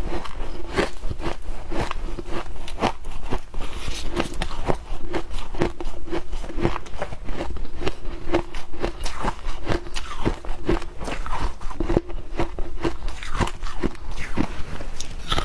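A mouthful of humidifier ice being bitten and chewed close to the microphone: continuous crunching made of many sharp cracks a second.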